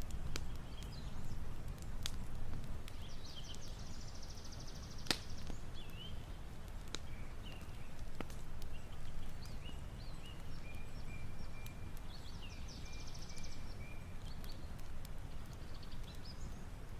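Songbirds calling with short chirps, trills and whistles over a steady low rumble. A few sharp clicks fall among them, the loudest about five seconds in.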